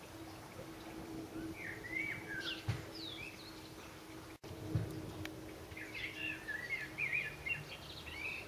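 Small birds chirping in short, quick phrases, once about two to three seconds in and again from about six seconds in, over a faint steady hum.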